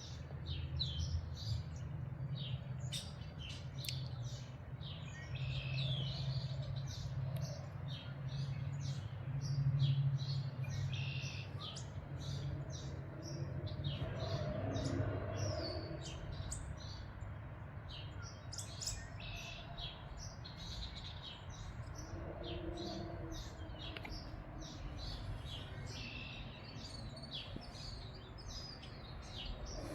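Several songbirds chirping and singing continuously in many short, overlapping calls, over a steady low wind rumble that eases off after about the first half.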